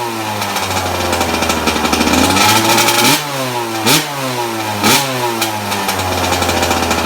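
Suzuki RM85 two-stroke dirt bike engine running just after a cold start, its pitch sagging and rising with the throttle and three sharp revs about three, four and five seconds in. The engine has a fresh top and bottom end rebuild and started first kick without the choke.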